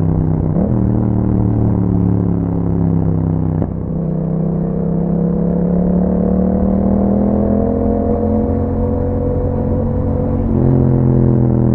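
Exhaust note of a 2021 Yamaha MT-07's 689 cc parallel-twin engine through an Akrapovic exhaust, heard while riding. The note breaks briefly twice early on, climbs slowly in pitch for several seconds as the bike pulls, then steps to a lower, fuller note near the end.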